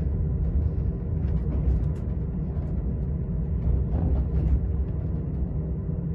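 Low, steady rumble and hum inside a TGV passenger carriage as the train pulls out of the station.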